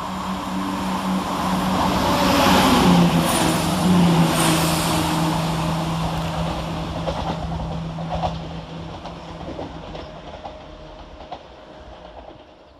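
ScotRail Class 170 Turbostar diesel multiple unit passing through the station, with a steady diesel engine note and a few clicks of wheels over rail joints. It is loudest about three seconds in, the engine note drops in pitch as the train goes by, and the sound then fades away.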